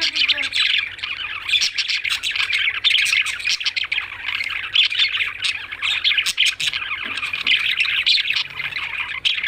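A group of pet lovebirds chirping and chattering continuously, many rapid high-pitched chirps overlapping.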